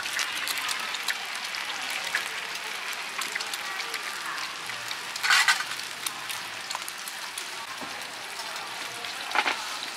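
Mussel omelette batter, eggs and mussels frying on a large flat griddle: a steady sizzling hiss with small crackles. There are two brief louder hisses, about five seconds in and again near the end.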